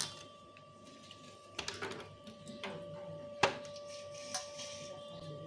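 Hand-cleaning of a fridge interior with a cloth: scattered light clicks and knocks as fridge parts are handled, with a sharper knock about three and a half seconds in, over a steady faint tone.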